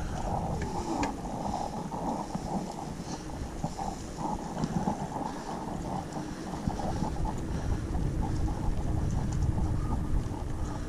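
Steady wind rumble on a GoPro's microphone while out riding along with a boy on a mountain bike, with faint clicks now and then.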